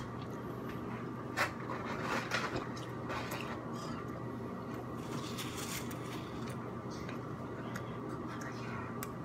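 A person chewing a mouthful of torta sandwich with the mouth closed: faint, scattered mouth clicks and smacks over a steady low hum.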